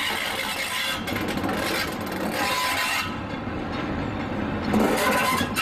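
A train of scrapped steam locomotives being towed slowly past, their wheels and running gear clanking, scraping and rattling over the rails in a steady noisy din.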